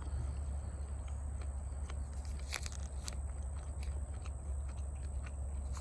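A person chewing a smoked pork meat stick, with scattered short mouth clicks, over a steady low hum.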